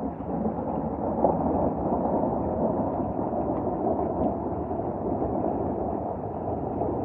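Thunderstorm noise: a loud, even wash of sound that swells just after the start, peaks about a second in, then holds steady.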